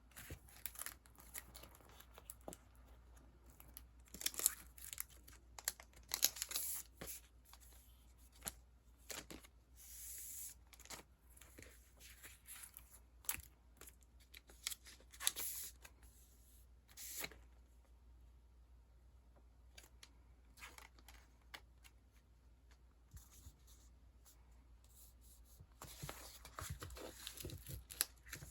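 Sticker sheets and their packaging rustling and crinkling as they are handled. The sound comes in short, irregular bursts, with a few sharper crackles.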